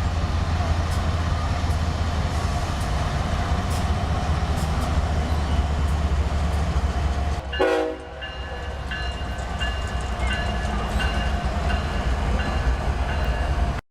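Train running by with the steady low rumble of diesel locomotive engines. The sound changes abruptly about eight seconds in, and a few steady higher tones sit above the rumble after that.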